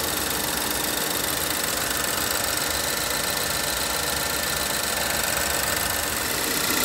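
Volvo S60 engine idling with the A/C switched on and the compressor running while the system is being recharged with refrigerant: a steady, even running noise with a constant hiss.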